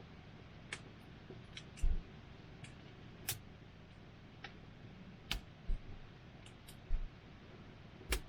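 Campfire crackling: burning wood gives sharp, irregular pops and snaps, about ten of them, over a faint steady hiss. A few low thuds come in between.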